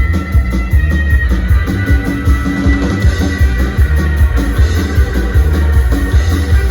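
Psychobilly band playing an instrumental passage: electric guitar over a steady driving beat of drums and heavy bass.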